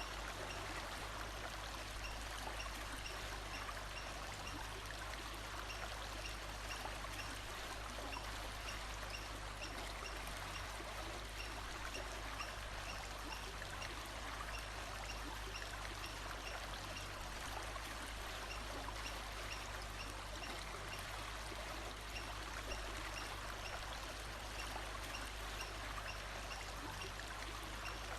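Steady rushing of running water, like a stream, with faint high chirps repeating at even intervals over it.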